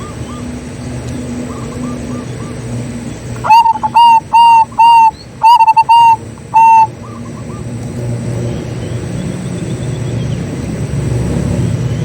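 Zebra dove (perkutut) cooing: a quick run of about seven loud coo notes a few seconds in, with fainter doves cooing farther off and a steady low rumble underneath.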